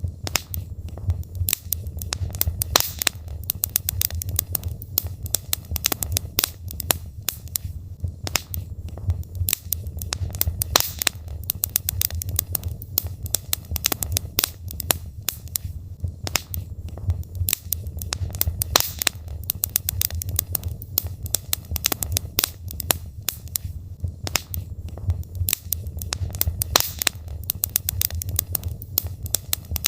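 Logs burning in a fireplace, crackling with frequent irregular sharp pops over a steady low rumble of the fire.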